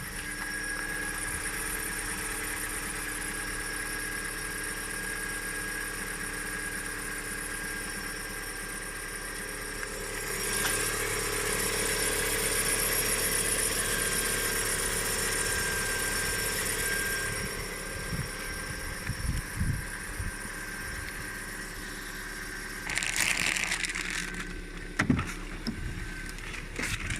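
Lada Vesta 1.8 engine running with a steady high whistle from the alternator drive, which the owner puts down to either a worn bearing or the alternator belt. The sound grows louder about ten seconds in and eases again some seven seconds later, with a few short knocks near the end.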